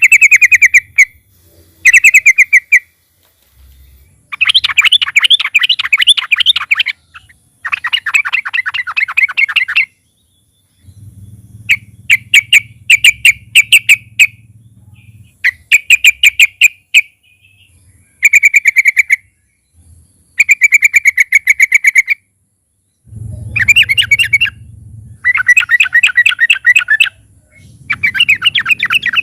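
Yellow-vented bulbul (trucukan) calling in repeated bursts of rapid chattering notes, each burst one to three seconds long with short pauses between.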